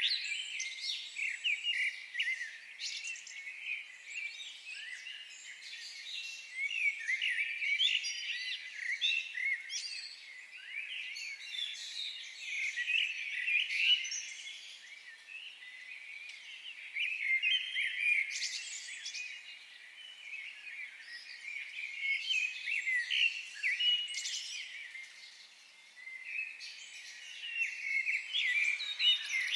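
A chorus of several songbirds singing and chirping over one another, a dense run of short, quick notes with sliding pitch, easing off briefly twice.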